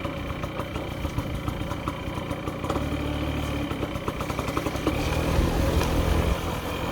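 Small single-cylinder moped engine running steadily, getting louder about five seconds in.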